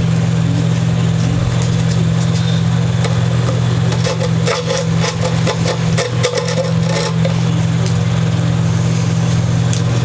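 Sandpaper rubbing in quick scratchy strokes for a few seconds in the middle, smoothing the nut slot of a guitar for a new nut. A steady low hum runs underneath throughout and is the loudest sound.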